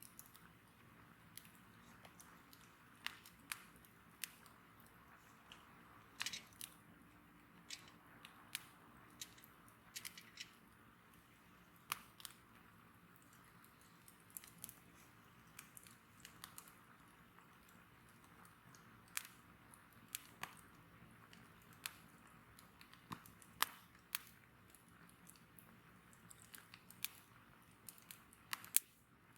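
Wood bonfire crackling, with irregular sharp pops and snaps over a faint hiss.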